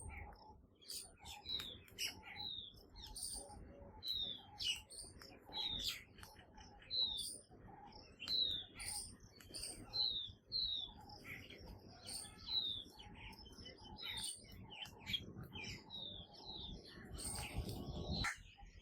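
Birds chirping over and over, a run of short, high chirps that each fall in pitch, coming about once a second with others in between.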